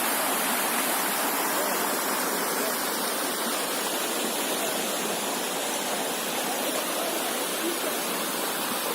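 Water pouring steadily over rock at a small waterfall on a limestone canyon stream: a continuous, even rush.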